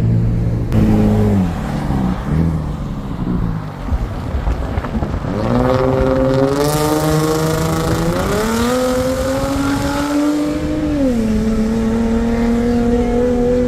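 Car engine on the road, its note dropping, then climbing hard under acceleration with a step up about 8 s in, falling sharply near 11 s as the revs come down, then holding steady.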